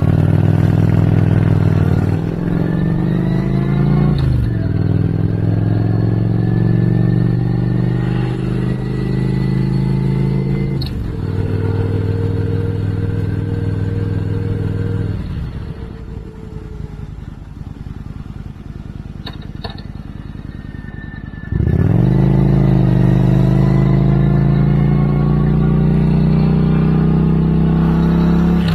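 Motorcycle engine under way, pulling up through the gears, its pitch climbing and then dropping at upshifts about 4 and 11 seconds in. About 15 seconds in the throttle is rolled off and it coasts more quietly, then about 22 seconds in it opens up sharply and pulls again, shifting up near the end.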